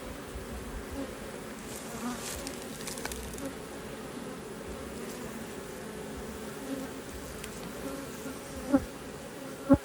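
Many honeybees buzzing steadily in a dense drone, with two sharp knocks about a second apart near the end.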